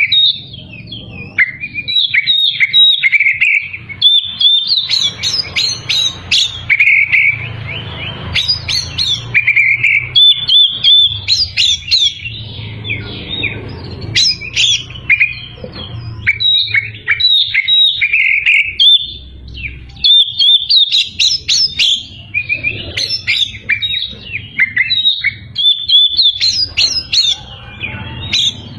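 Oriental magpie-robin (kacer) in full song: a fast, unbroken stream of varied high whistles and chattering phrases with only short pauses. A faint low hum runs underneath.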